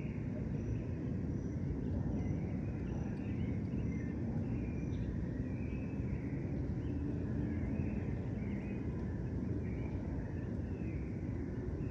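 Birds chirping and twittering over a steady low rumble of distant city traffic, with a high, thin chirp repeating about twice a second.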